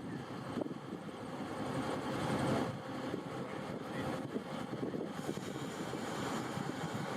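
Steady noise of a train, a continuous rumbling haze with no single event standing out.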